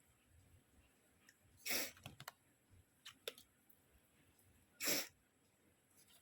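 Packaging being handled: two short rustling hisses, one about two seconds in and one near five seconds, with a few light clicks between them.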